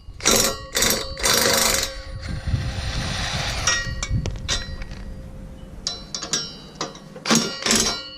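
Hand ratchet clicking in short runs as the grill-guard bolts are loosened, with several louder metallic clatters near the start and near the end.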